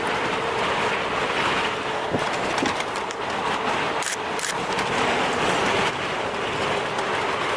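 A steady, loud rushing noise that starts abruptly, with a few faint clicks through it.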